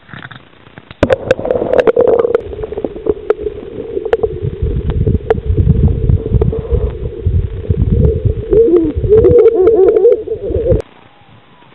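Water churning and bubbling over a submerged microphone, heard as a muffled low rushing with clicks and gurgles. It starts suddenly about a second in and cuts off abruptly near the end, as the camera comes out of the water.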